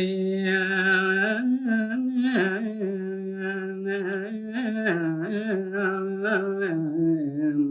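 A male voice sings a Balinese tembang verse in pupuh Sinom without accompaniment. He holds long notes with slow, wavering ornaments and steps down in pitch toward the end.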